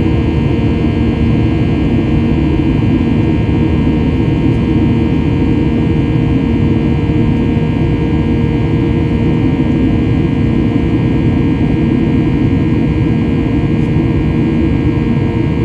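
Boeing 737-800's CFM56 turbofan engines running steadily, heard from inside the cabin as a constant rumble with a few steady humming tones over it.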